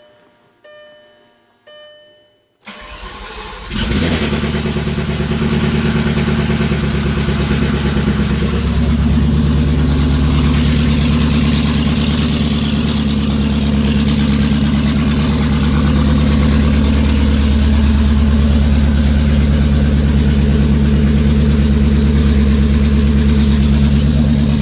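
Volkswagen Passat W8's 4.0-litre W8 engine, freshly rebuilt with new head gaskets, started for the first time. The fuel pump is primed with two short hums, then the starter cranks briefly and the engine catches about four seconds in and runs steadily and loudly.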